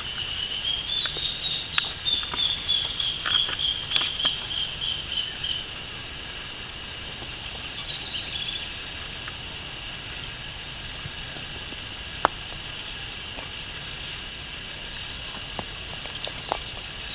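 Wild bird singing in a woodland: a rapid run of high, pulsing notes lasting about five seconds, then a short downward call a few seconds later, over a steady high buzzing chorus. A single sharp click sounds about twelve seconds in.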